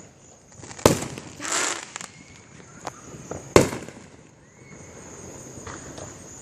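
Fireworks exploding: two sharp, loud bangs about a second and three and a half seconds in, the first followed by a crackling hiss, with a few fainter pops between.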